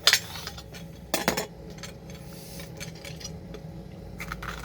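A metal spoon scooping the seeds out of a pepper: a few short scrapes and clinks, one just after the start, a pair about a second in, and a couple near the end.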